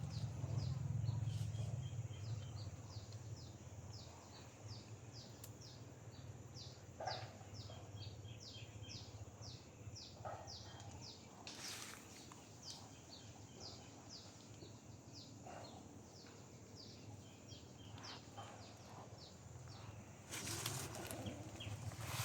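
A bird calls in a fast, steady run of short, high chirps, each falling in pitch, about two a second, over a low outdoor background. There are a few soft knocks or rustles along the way, and a louder rustling comes in near the end.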